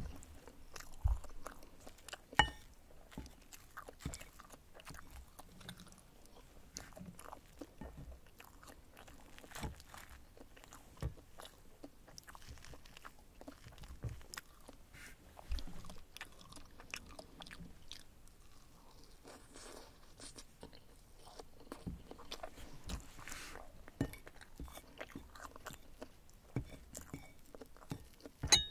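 Close-up eating sounds: chewing and biting on mouthfuls of souffle omelette, with scattered clicks and taps of wooden chopsticks against a ceramic plate. A sharp click about two seconds in is the loudest.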